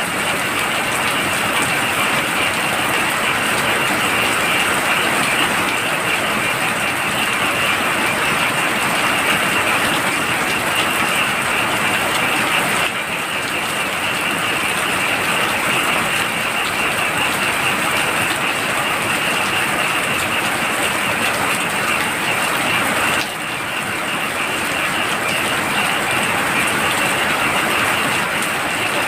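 Heavy rain pouring steadily, with a constant high-pitched chorus of frogs over it. The level drops slightly twice.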